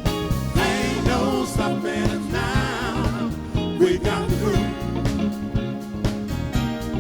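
Live soul band playing a Motown-style song over a steady beat, with a melodic lead line whose pitch wavers and bends through most of the passage.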